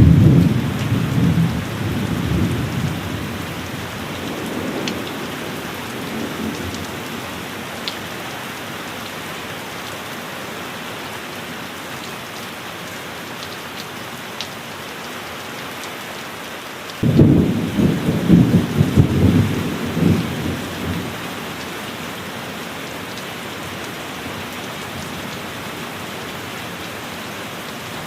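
Steady heavy rain with two rolls of thunder: one already rumbling at the start and fading away over several seconds, and a second that breaks in suddenly a little past the middle and rumbles for about four seconds.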